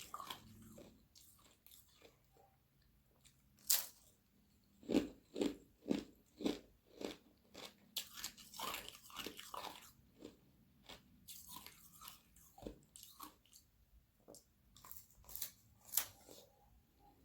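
Close-up biting and chewing of thin sheets of frozen carbonated water, with irregular sharp crunches of the ice. The crunches come in bursts: a loud single bite about four seconds in, a quick run of crunches from about five to ten seconds, and another loud cluster near the end.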